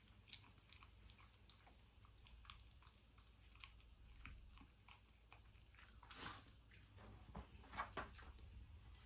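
Black Shiba Inu eating from his bowl: faint, scattered chewing clicks, a little louder around six and eight seconds in.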